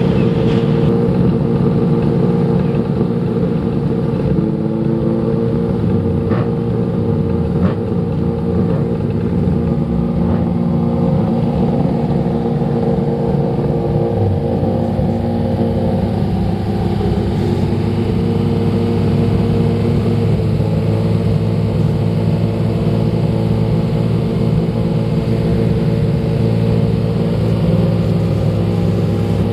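Rally car engine running at a steady, unchanging speed, held for a long stretch with a slight shift in its note about halfway through.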